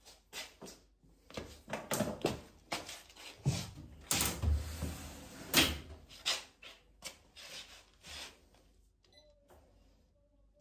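Irregular knocks, clicks and clatter of parts and tools being handled, with a heavier thump and a scraping rush about four seconds in, dying away near the end.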